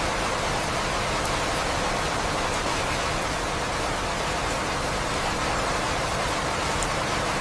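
Steady rain sound for sleep: an even, unbroken hiss.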